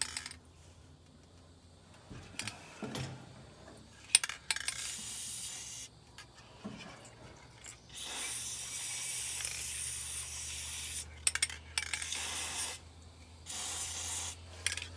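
Graphite dry lubricant sprayed from an aerosol can onto a dryer's idler wheels: a long hiss of about three seconds partway through and a shorter one near the end, with a few small clicks and knocks of handling between.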